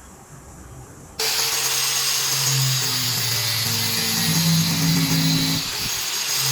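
A woodworking power tool switches on suddenly about a second in and runs steadily with a loud, hissing whine.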